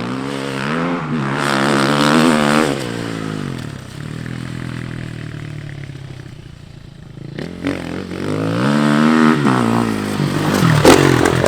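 Dirt bike engine revving up and easing off, twice: the pitch climbs for about two seconds and drops, the engine runs low and steady for a few seconds, then climbs and drops again near the end.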